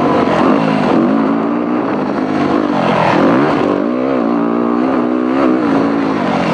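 Dirt bike engine riding a motocross track, its pitch rising and falling again and again as the throttle is opened and closed.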